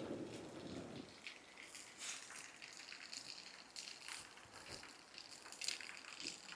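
Campfire crackling and popping, with irregular sharp snaps of burning wood. A low rushing noise in the first second fades out.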